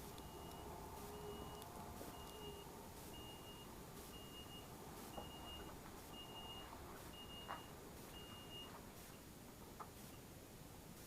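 Faint, evenly repeating high single-pitch electronic beeps, about three every two seconds, typical of a vehicle's reversing beeper; the beeping stops near the end, with a few faint clicks in between.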